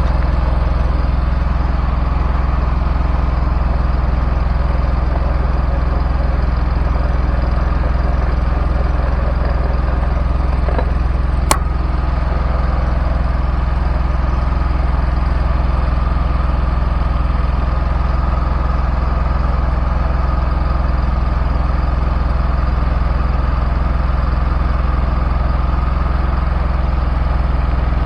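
Replacement Kohler engine on a Ferris zero-turn mower running at a steady speed, with one sharp click about eleven seconds in. The owner says this engine backfires through the carburettor and won't rev past half throttle.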